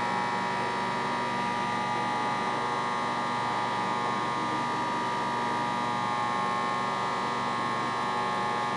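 Microwave oven running with a whole egg heating inside: a steady electrical hum.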